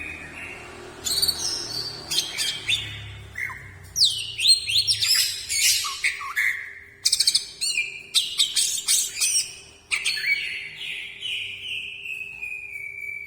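Greater green leafbird (cucak ijo) singing loudly: a varied run of whistles, quick trills and sweeping chattering phrases, ending in a long drawn-out whistle that slowly falls in pitch.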